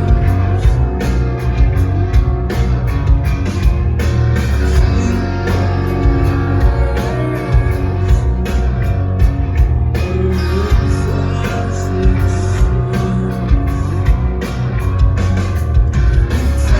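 A live rock band playing loudly with electric guitars and a drum kit, recorded from the crowd on a phone.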